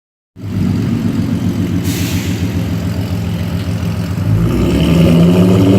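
2008 Ford Mustang's 4.0 L V6 running loud through long-tube headers, cat deletes and Cherry Bomb glasspacks, getting louder about four seconds in.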